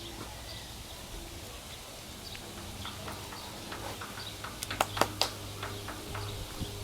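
A horse moving under its rider: scattered light taps of hooves and tack, with three sharp clicks close together about five seconds in, over a faint steady low hum.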